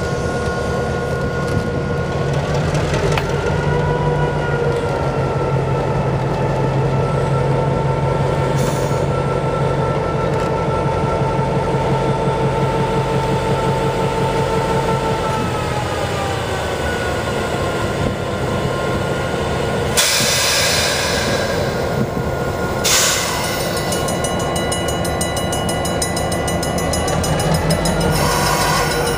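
A passenger train hauled by an EMD GP7 diesel locomotive running on the rails: a steady low diesel drone under long squealing tones from the wheels that slowly shift in pitch. There are brief hissing bursts about 20 and 23 seconds in.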